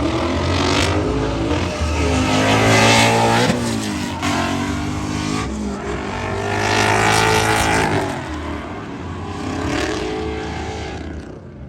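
A car engine revving hard, its pitch climbing and falling in several long sweeps.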